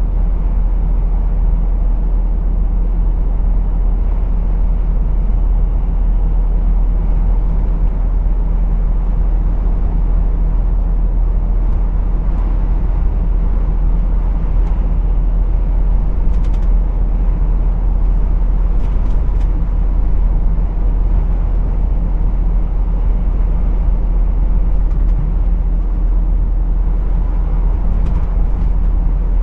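A lorry's diesel engine and road noise, a steady low rumble while driving, with a few faint clicks in the second half.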